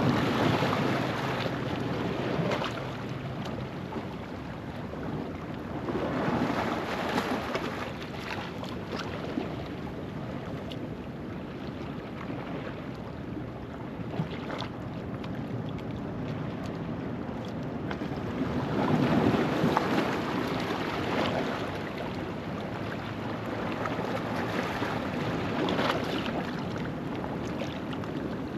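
Ocean waves washing over a rocky shoreline at low tide: a steady rush of surf that swells into four louder surges, near the start, about six seconds in, about twenty seconds in and near the end.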